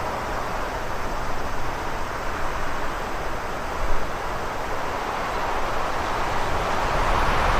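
Steady rushing wind ambience over a low rumble, easing in the middle and swelling again near the end.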